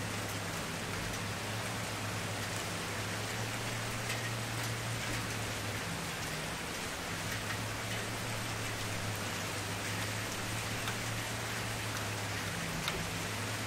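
Wood bonfire burning: a steady hiss of flames with scattered small crackles and pops, over a steady low hum.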